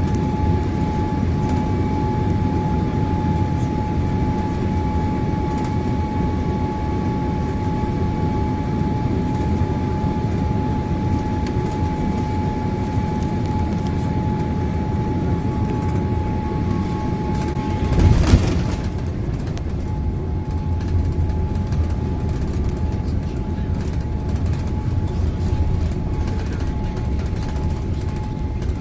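Steady cabin noise inside a Boeing 787-8 Dreamliner airliner: a low rumble with a constant high whine over it. A single sharp knock comes about two-thirds of the way through, and the whine drops out for a moment after it.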